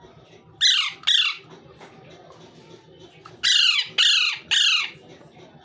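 Pet parrot squawking: five loud, harsh calls, a pair about half a second apart and then three in quick succession about three and a half seconds in.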